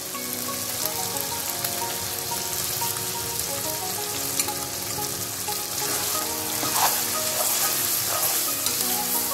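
Beef pieces sizzling steadily in hot oil and masala in a cooking pot. From about six seconds in, a metal spoon stirs and scrapes through the meat as cream is mixed in, giving a few sharp scrapes over the sizzle.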